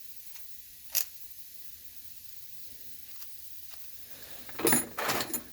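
Small metal carburetor parts being handled on a workbench: a single sharp click about a second in, then a short burst of clattering and rubbing near the end, the loudest sound here.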